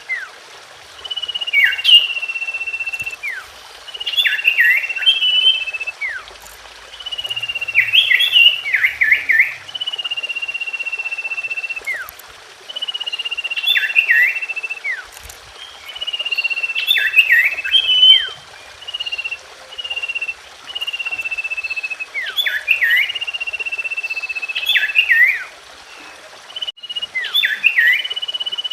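Common iora (cipoh) song: a long drawn-out whistle falling slightly in pitch, alternating with quick bursts of sharp downward-sweeping notes, repeated over and over every two to three seconds.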